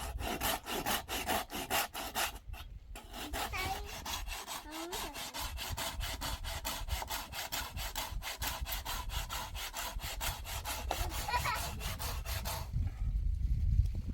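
Hand saw cutting wood in quick, even back-and-forth strokes, about four a second. It pauses briefly a couple of seconds in and stops shortly before the end.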